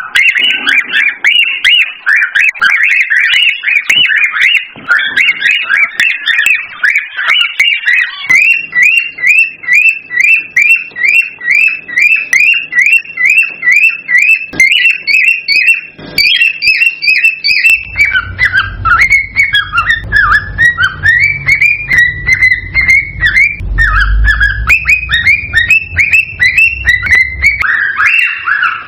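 Cockatiels chirping and whistling in a fast, continuous run of short, sharp calls, a few each second. A low rumble sits under the calls for the last third or so.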